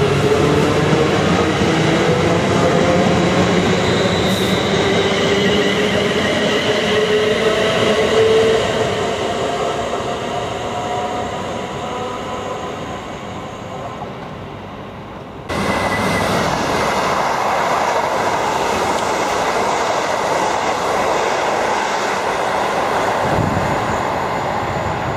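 A train pulling out of the station, its motors giving a rising whine over the running noise as it speeds up and fades away. After a sudden cut about two-thirds of the way through, another train runs through the station with a steady, loud rush of wheels on rails.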